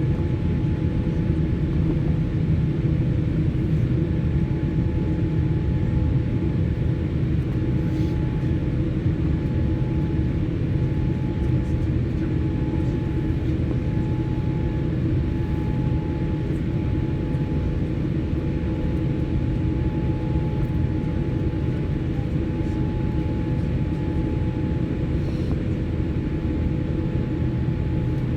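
Steady low rumble and hum inside a jet airliner's cabin on the ground before takeoff, with a couple of faint steady tones running through it.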